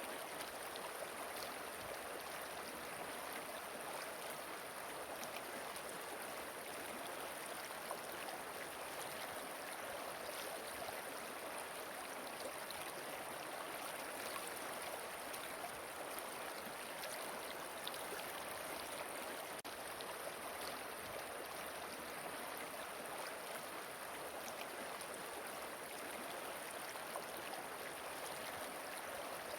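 Flowing river water, a steady, even rush with no breaks or changes.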